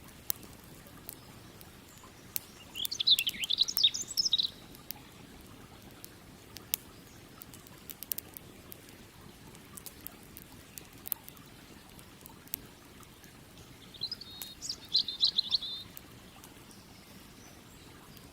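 A songbird sings two short warbling phrases, a few seconds in and again near the end. Underneath, a wood campfire gives sparse sharp crackles and pops over a faint steady rush of the river.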